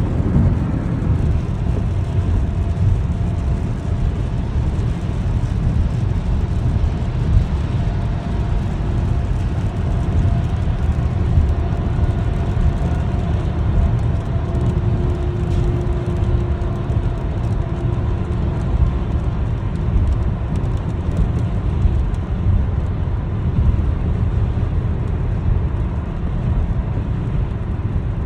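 A steady low rumble, with a few faint steady tones in the middle.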